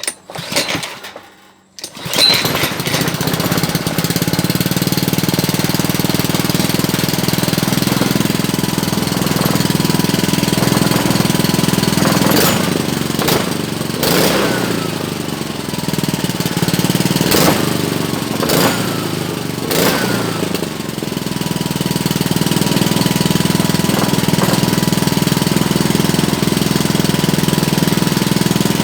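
Honda GC160 single-cylinder small engine catching about two seconds in and then running steadily, now starting after a hard-start repair. Several sharp clacks and brief dips in the running come partway through.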